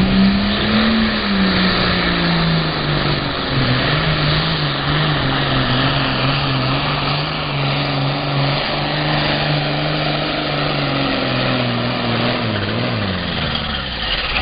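John Deere 4010 super farm pulling tractor's engine running hard at high revs on a pull, holding a steady high note. Near the end the note falls away as the run ends, then one quick rev rises.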